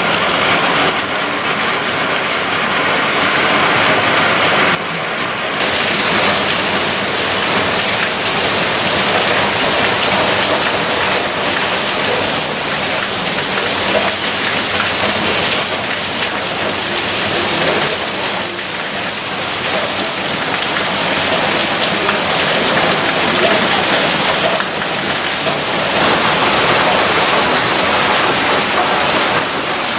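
Heavy rain falling in a dense, loud, steady hiss, striking standing water, leaves and rooftops. Its tone shifts abruptly about five seconds in and again near the end.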